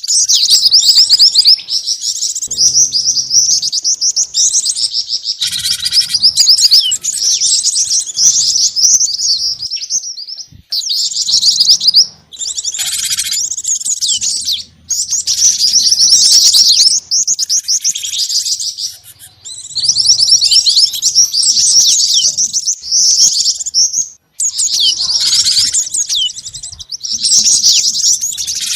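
Loud, dense, rapid high chirping and twittering from a bird-lure recording that mixes the calls of glatik batu (cinereous tit), jingjing batu and mantenan, with brief breaks every few seconds.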